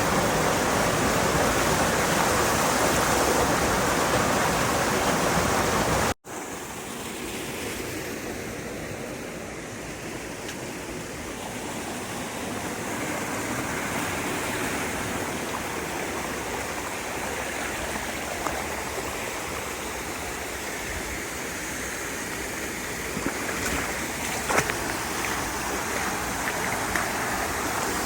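Mountain stream water rushing over rocks, loud at first. After a sudden cut about six seconds in, it goes on more quietly, with a few light knocks near the end.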